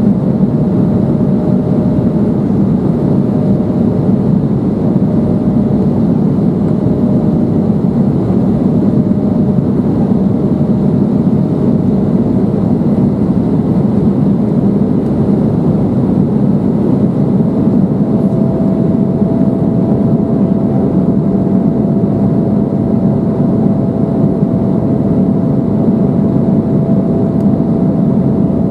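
Cabin noise of an Embraer 175 climbing after take-off: the steady rush of its two General Electric CF34 turbofan engines and the airflow, with a thin whine that steps slightly higher in pitch about 17 seconds in.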